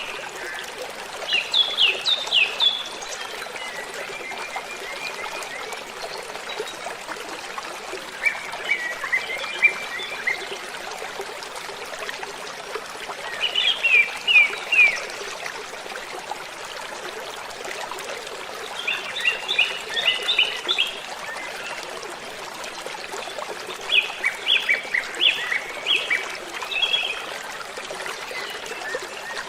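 Steady rush of a waterfall, with a songbird singing short phrases of quick, high, repeated notes every five seconds or so.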